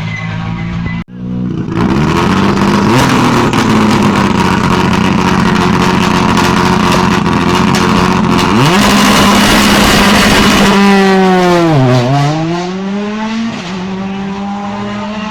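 Rally car engine running at a steady low note, then, after a brief break in the sound, launching from the stage start at full throttle and pulling hard through the gears, each upshift marked by a jump in pitch. Near the end the engine note drops sharply and climbs again, then settles at a lower, steadier pitch.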